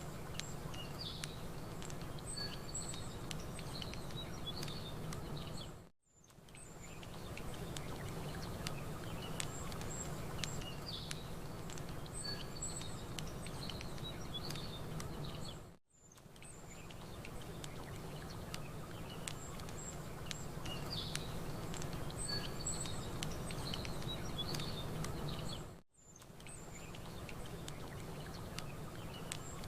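Campfire crackling with small scattered pops while birds chirp, over a low steady wash of lapping water. It is a ten-second loop that dips briefly to near silence and fades back in three times.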